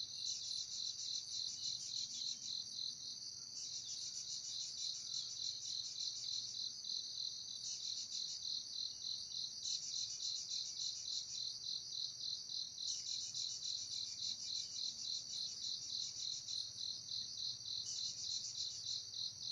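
Chorus of insects trilling in rapid pulses, a steady high song with a second, higher song changing pattern every few seconds.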